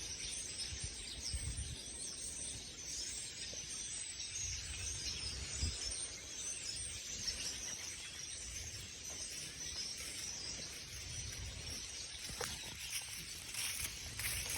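Outdoor ambience: a steady high-pitched hiss with faint, scattered bird chirps, and a few soft low bumps.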